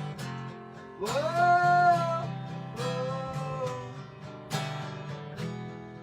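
Acoustic guitar strummed steadily, with a voice singing a long "whoa" that slides up about a second in, then a second held note about three seconds in.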